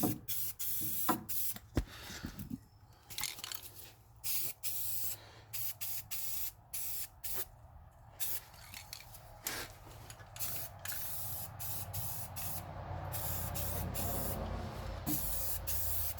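Aerosol spray-paint can spraying a gloss coat in many short, sharp-edged hissing bursts.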